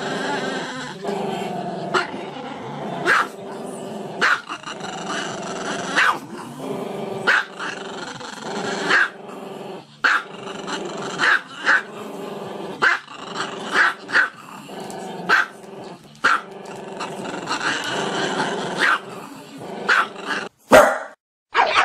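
A small dog howling with its muzzle raised: long, growly, drawn-out calls broken by short sharp yips or barks about once a second. A loud click and a brief silence come near the end.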